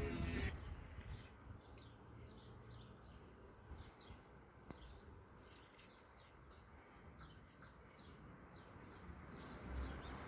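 Birds chirping faintly: many short, quick, high chirps scattered irregularly, several a second, over a low background hum.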